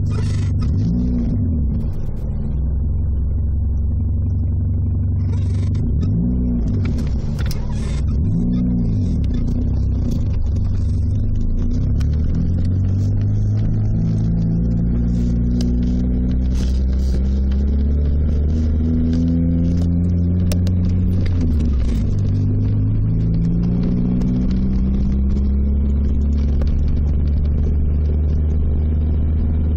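First-generation Mitsubishi Eclipse engine running and being revved: a few short blips of the throttle in the first nine seconds, then revs raised and held, rising and falling slowly, with a brief dip a little past the twenty-second mark.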